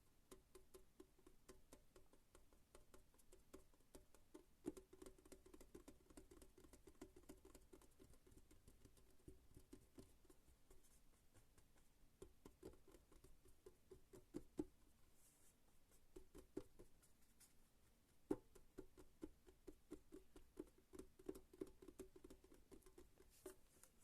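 Fast, light fingertip and nail tapping and scratching on an object, many soft taps a second, with a few sharper knocks about five, fourteen and eighteen seconds in.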